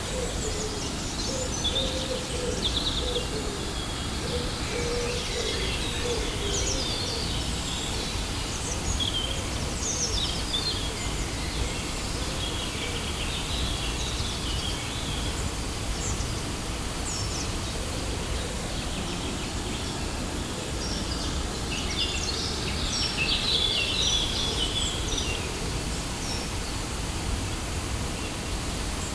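Steady rush of a waterfall, with small birds chirping and singing over it. The birds are busiest in the first half and again later on, and a low cooing call comes in the first few seconds.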